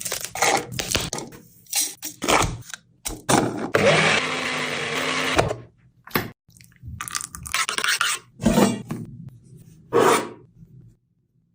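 Kitchen food-preparation noises: a series of short scrapes and knocks, with a steady hiss lasting about two seconds in the middle.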